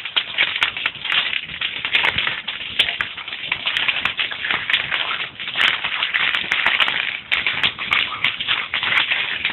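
Wood fire crackling: a dense, irregular stream of small snaps and pops over a hiss, with a few sharper pops.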